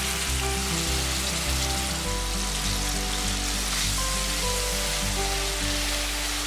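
Blended red chilli paste sizzling as it fries in hot oil in a pan, while it is stirred with a spatula. Background music plays underneath.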